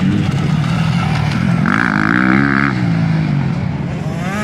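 Motocross bikes racing, their engines revving. One bike's engine rises and falls in pitch about halfway through, with a high whine over it, and another revs up sharply near the end.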